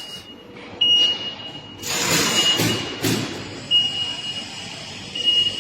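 A high-pitched electronic beeper sounding in long on-off tones. About two seconds in, a louder rushing noise lasts roughly a second and a half.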